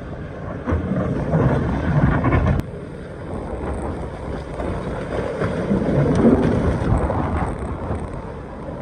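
Excavator running while it digs in rock: a low, noisy engine sound that swells and eases, with a sharp knock about two and a half seconds in.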